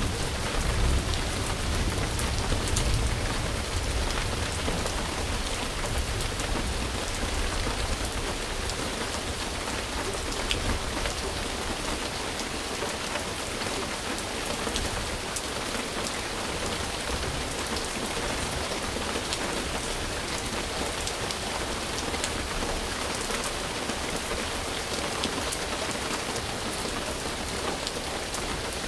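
Steady rain falling on surfaces, with scattered drops ticking through an even hiss. A low rumble underneath is strongest in the first ten seconds and then eases off.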